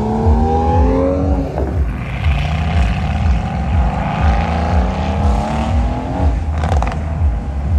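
Performance car engines accelerating hard, the engine note climbing in pitch as each pulls away. One breaks off about a second and a half in, and another climbs steadily until about six seconds in, followed by a quick burst of crackles. A low, uneven rumble runs underneath.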